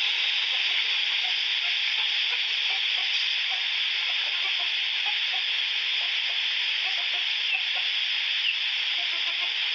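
Strong wind blowing, a steady high hiss that stays even throughout, with faint short chirps underneath.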